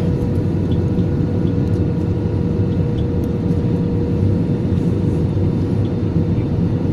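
Steady rumble of engine and airflow noise inside an Airbus A320-200 cabin as it descends to land, with a faint steady hum running through it.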